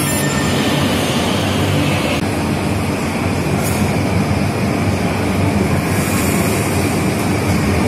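Electric commuter train moving along an underground station platform: a steady, loud rumble of wheels and running gear on the rails.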